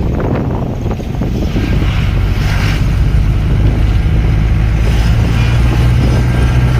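A motor vehicle running steadily, its engine a low, even drone with road noise over it.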